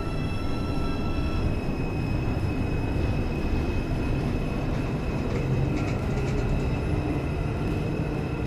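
New York City Subway R142 train running along the track: a steady low rumble of wheels on rail with several steady high whining tones over it.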